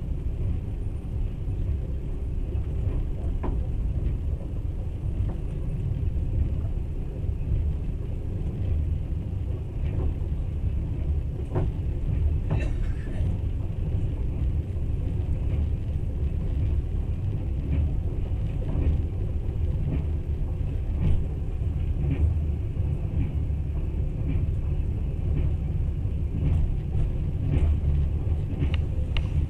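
Steady low rumble of a passenger train carriage running on rails, heard from inside the car, with scattered clicks and knocks from the wheels and the carriage.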